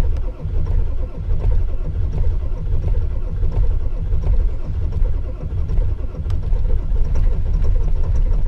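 Ford 7.3 Power Stroke V8 diesel cranking on the starter, firing unevenly on some cylinders but not catching. This is a very cold, rough start on a cold-soaked block that its block heater has barely warmed.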